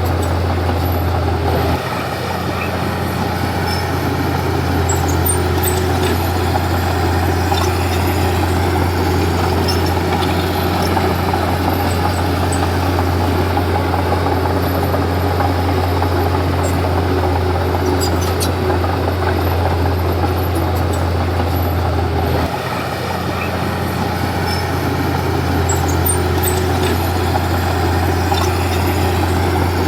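Komatsu D31P bulldozer's diesel engine running with a steady low drone. The level drops briefly about two seconds in and again about 22 seconds in, then builds back up.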